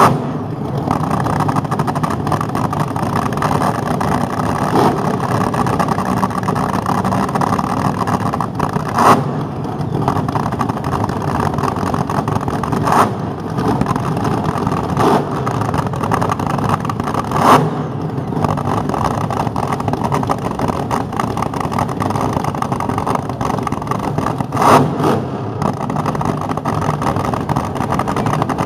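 Car engines running on a busy street, a steady mechanical rumble throughout, with four short, sharp louder sounds standing out along the way.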